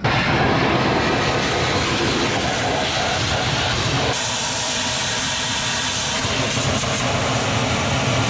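Pressure washer's small spray gun blasting a high-pressure water jet inside a bulldozer's compartments. It starts suddenly as the trigger is pulled, and about four seconds in the spray turns into a brighter, sharper hiss.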